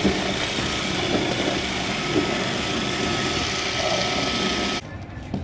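A machine running steadily, with a faint steady whine over its noise, cutting off suddenly near the end.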